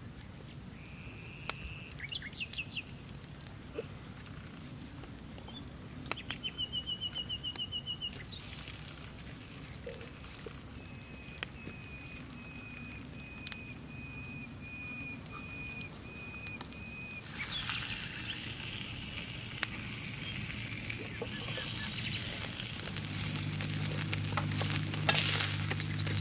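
Outdoor ambience with birds calling in short trills and a run of even piping notes, a faint chirp repeating about once a second, and scattered small clicks and taps. A hiss builds through the second half, and a low steady hum comes in near the end.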